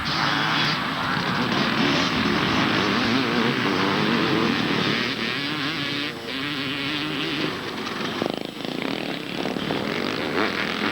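250 cc two-stroke motocross bikes racing, their engines revving up and down in pitch as the riders open and close the throttle, several machines overlapping.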